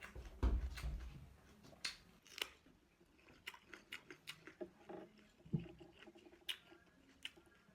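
Close-miked chewing and mouth sounds of someone eating, with scattered short clicks and wet smacks and a low thump about half a second in.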